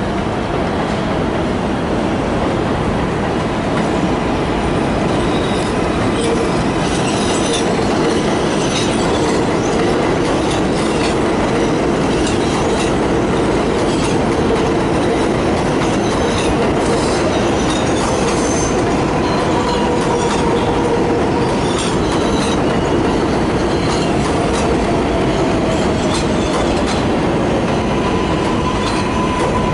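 Train running along the rails: continuous rolling noise with a faint whine and wheel squeal, and scattered clicks over the rail joints.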